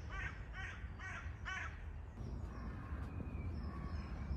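A crow cawing four times in quick succession, about two calls a second, over the first two seconds, then falling quiet, over a steady low rumble.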